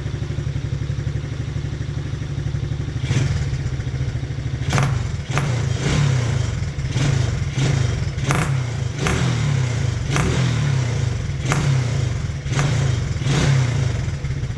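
Taotao 125cc ATV's single-cylinder engine running, with a string of sharp backfire pops starting about three seconds in, roughly one a second. The owner later traces the popping to the engine running too lean.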